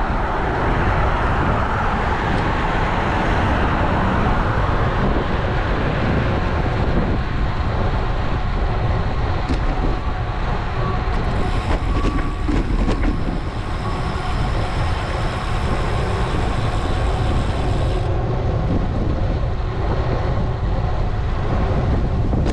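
Wind rushing over a GoPro action camera's microphone on a moving road bike, mixed with road and traffic noise. About halfway through, a faint steady whine and a few clicks come in, and they stop a few seconds before the end.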